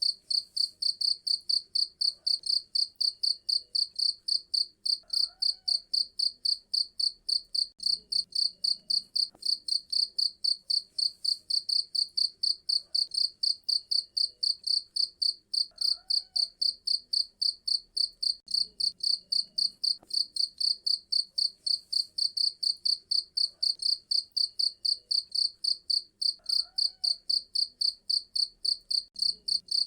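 A cricket chirping steadily, about three to four high-pitched chirps a second without a break.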